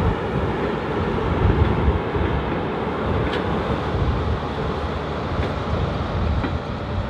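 A train running on the rails: a steady low rumble with a few faint clicks.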